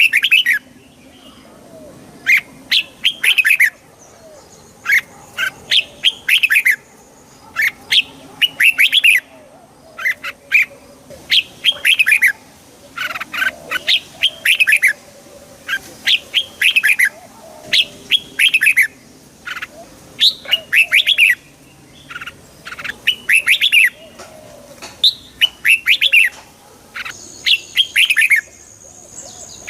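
Red-whiskered bulbul song: short, bright phrases of quick falling notes, repeated one after another every second or two.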